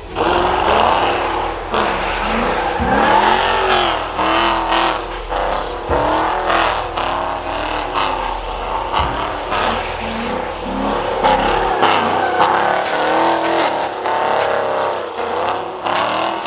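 Cammed 5.7-litre HEMI V8 of a 2016 Dodge Challenger R/T, fitted with long-tube headers, revving hard, its pitch rising and falling again and again.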